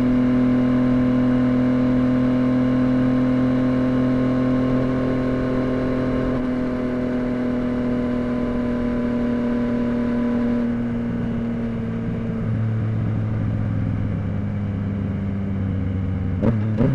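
Yamaha FZ-09's 847 cc inline three-cylinder engine running, its pitch sinking slowly and steadily as the revs fall. Near the end there is a quick blip of the throttle, a short sharp rise and fall in revs.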